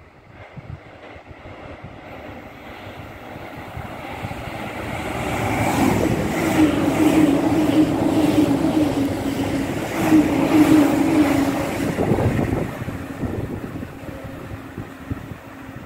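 JR E657 series limited express electric train approaching and running past at speed: a rumble that builds steadily, peaks with a run of rhythmic clacks from the wheels passing over the rail joints and a steady hum, then fades as the train draws away.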